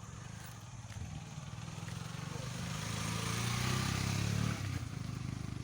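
Motor vehicle engine running with a pulsing low note, growing louder to a peak about four seconds in, then dropping off sharply.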